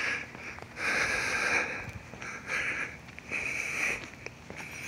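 A man breathing and sniffing: four or so soft, short, noisy breaths in a row.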